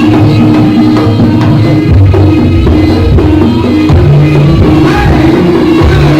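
Jaranan music played live and loud, with drums over sustained melodic lines; a deep bass comes in about two seconds in.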